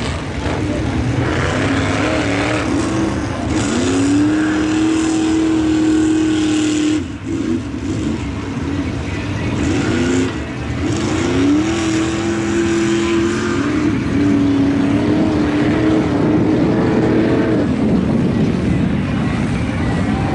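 Chevy Blazer mega truck's V8 revving up to wide-open throttle and held there, twice: a climb about three and a half seconds in, a brief drop about seven seconds in, then a second climb held until near the end, over a steady spray of noise from its V-Tread paddle tires churning mud and water.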